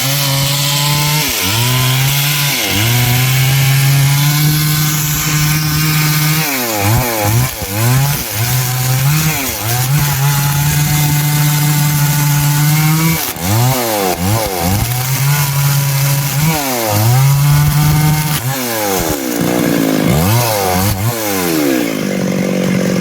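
Stihl MS 382 two-stroke chainsaw with a 24-inch bar cutting through wood at high revs. The engine pitch dips and climbs back several times as the chain loads in the cut or the throttle is eased and reopened.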